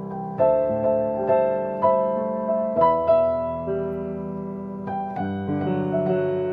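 Slow piano music with chords and single notes struck about every half second, each ringing and fading.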